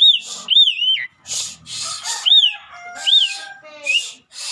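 Asian pied starling (jalak suren) calling in a loud, busy run. Clear whistled notes rise and fall in arches about six times, mixed with harsh rasping bursts and a few lower whistles.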